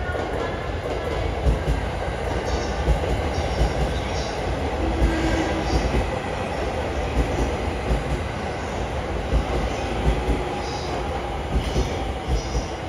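285-series Sunrise Express electric sleeper train rolling slowly into a station platform: a steady low rumble of the passing cars, with sharp knocks from the wheels and short high wheel squeals now and then.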